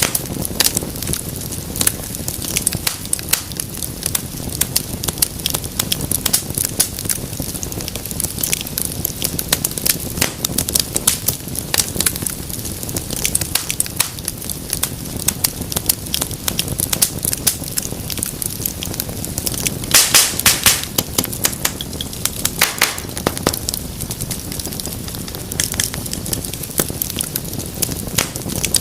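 Wood fire burning in a fireplace, crackling steadily with many sharp pops over a low rush of flame, and a quick run of louder pops about twenty seconds in.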